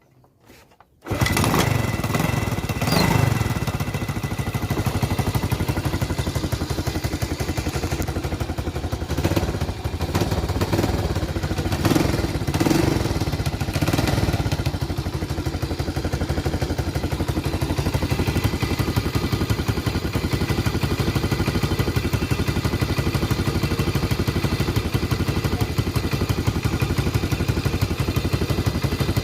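125 cc motorcycle engine starts up about a second in and runs. It rises and falls several times in the first half, then settles into a steady, even idle.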